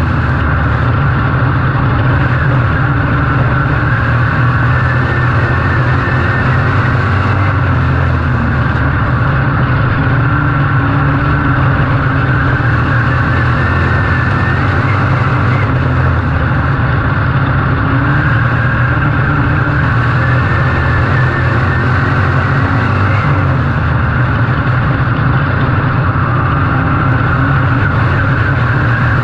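Race car engine running hard under racing load, loud and steady without a break.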